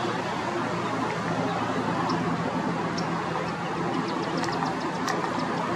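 Steady low hum of a running vehicle engine over a constant background noise, with a few faint short high chirps or ticks, several close together about four and a half seconds in.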